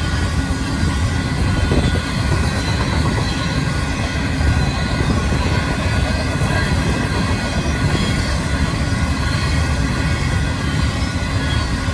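Union Pacific grain train's freight cars rolling past at the crossing: a steady, loud rumble of steel wheels on the rails.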